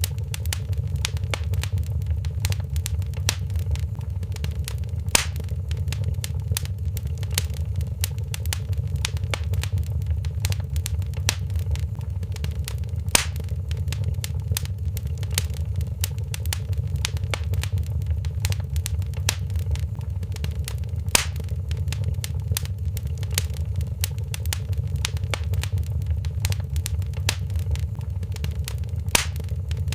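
Wood fire in a fireplace crackling and popping over a steady low rumble of flames, with a sharper, louder pop about every eight seconds.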